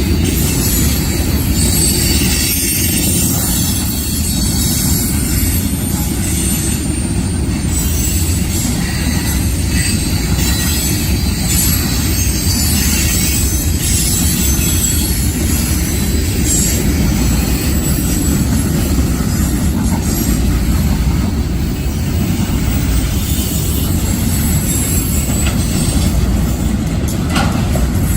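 Freight train cars rolling past on the rails: a loud, steady, deep rumble that holds unchanged throughout.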